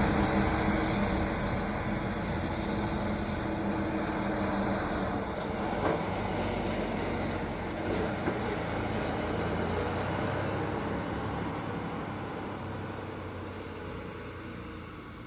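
Mercedes-Benz Travego coach's diesel engine running as the coach drives away, its sound fading steadily, with a couple of faint knocks partway through.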